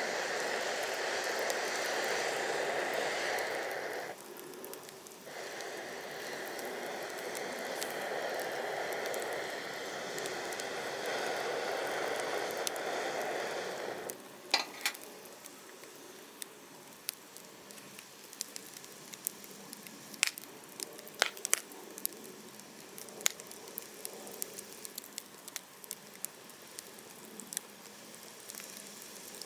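Wood bonfire burning, with a loud steady hiss through the first half that stops suddenly about halfway. After it come sharp, scattered crackles and pops.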